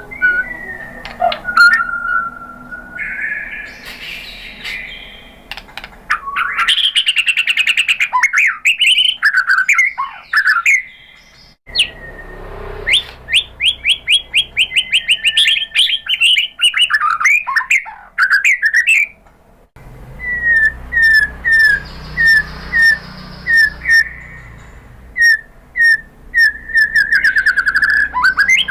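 White-rumped shama (murai batu) singing: a varied series of clear whistles, fast runs of rapid chirps and strings of repeated short notes, broken by short pauses about a third and two-thirds of the way through.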